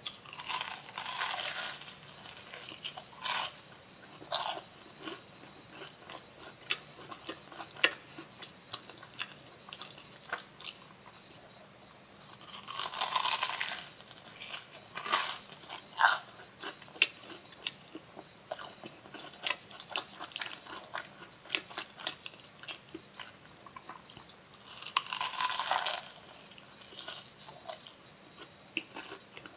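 Close-miked bites into a crispy batter-fried corn dog: three loud crunching bites about twelve seconds apart, each followed by chewing made of many short, sharp crunchy clicks.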